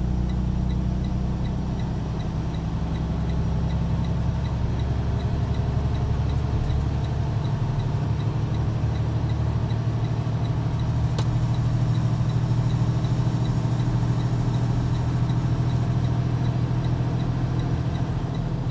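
Semi truck's diesel engine running, heard from inside the cab, with the hazard-light flasher ticking steadily about twice a second.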